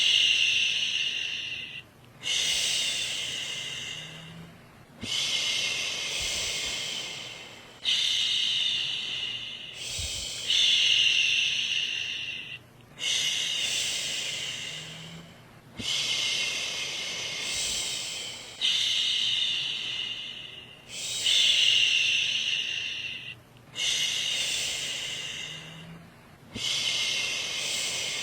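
A woman shushing, 'shhh', over and over to soothe a baby to sleep. Each hiss lasts about two to three seconds and fades slightly, with a brief break between them, repeating roughly every two and a half seconds.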